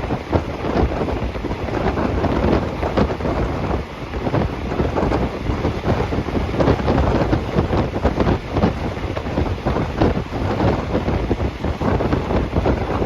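Moving passenger train heard from inside the carriage: a steady rushing noise with continual rattling, and wind buffeting the microphone.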